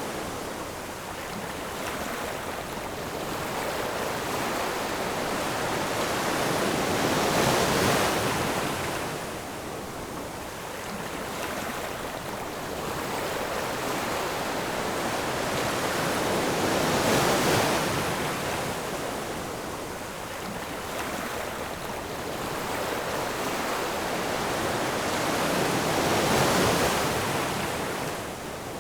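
Ocean surf: waves breaking and washing in, swelling and fading three times, about nine seconds apart.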